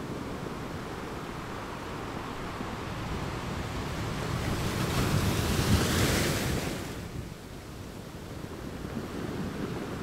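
Ocean surf on a sandy beach: a wave builds and breaks, loudest about six seconds in, then falls away sharply, and the wash of the next wave starts rising near the end.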